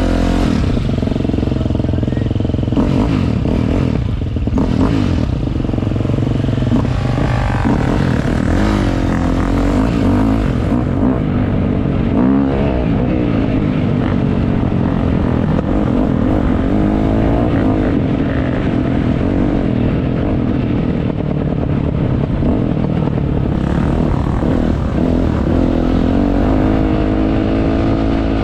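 Motocross dirt bike engine running hard, its pitch rising and falling again and again as the throttle is opened and closed.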